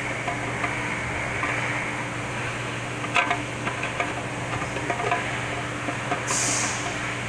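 Light metallic clicks and scrapes as a spring compressor tool is fitted on a 4L60E transmission case, over a steady low hum. A sharper click comes a little after three seconds, and a short hiss about six seconds in.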